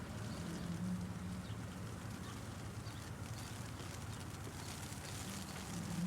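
Hail ticking steadily over the low, steady rumble of city traffic.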